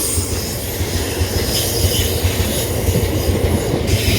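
Loaded aggregate freight train rolling through: a steady heavy rumble of wagon wheels on the rails, with a thin high wheel squeal over it.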